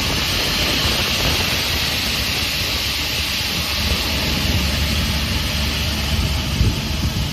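SCM M3 crawler-feed multi-rip saw with its 37 kW main motor running, giving a loud, steady whirring noise over a low rumble.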